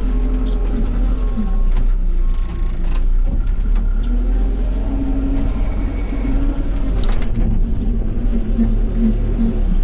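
Tractor engine running steadily while working a loader bucket over track ballast, its pitch wavering a little with the load, with a brief clatter about seven seconds in.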